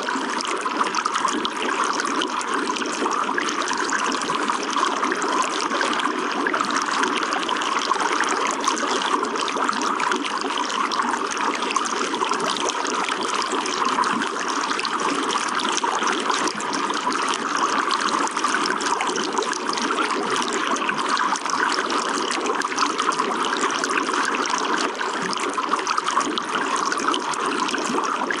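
Running water flowing steadily and evenly, without pauses or separate splashes.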